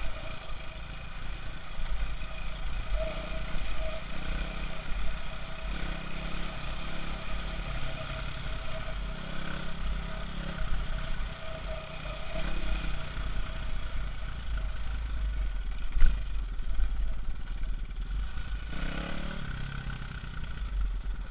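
Enduro motorcycle engine running on the move, its revs rising and falling, over a heavy low rumble, with one sharp knock about sixteen seconds in.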